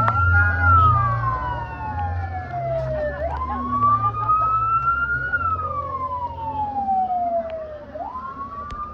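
A vehicle siren on a slow wail: the pitch jumps up quickly, climbs a little, then falls slowly. The cycle repeats about every five seconds, so it sounds just under twice, over a low rumble.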